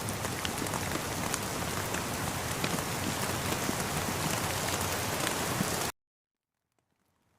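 Steady rain falling, a dense hiss with many individual drops tapping, that cuts off suddenly about six seconds in to silence and then fades back faintly near the end.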